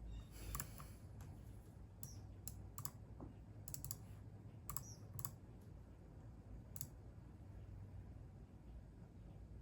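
Computer keyboard keys tapped slowly and unevenly, about a dozen separate clicks, stopping roughly seven seconds in, over a faint low steady hum.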